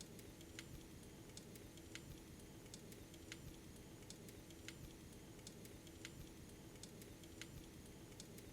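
Model train running, faint: a steady low hum with light, regular clicks about every two-thirds of a second.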